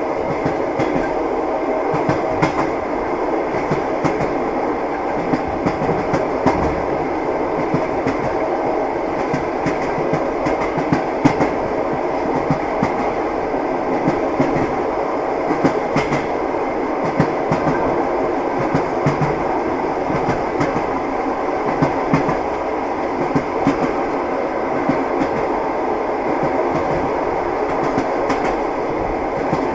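Train wheels running on the rails, heard from inside a passenger carriage: a steady rumble and rush with frequent irregular clacks and knocks as the wheels cross rail joints.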